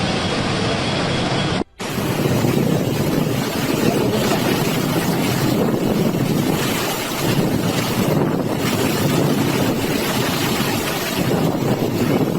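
Loud rushing storm noise of wind and surging water, with wind buffeting the microphone. It swells and eases, and drops out briefly about two seconds in at a cut.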